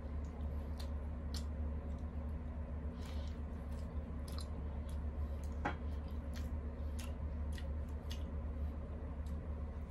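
A person chewing food close to the microphone: wet mouth sounds with scattered small clicks and smacks, over a steady low hum.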